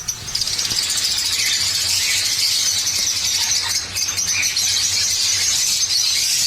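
Many small cage birds chattering and chirping at once, a dense high-pitched chorus.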